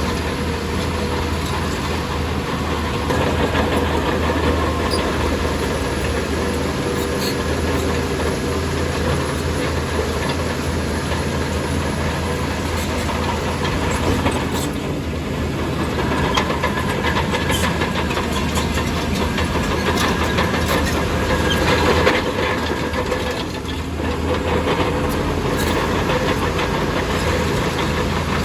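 Heavy diesel bulldozer engine running steadily with a deep hum, with scattered metallic clanks and knocks as the machine works.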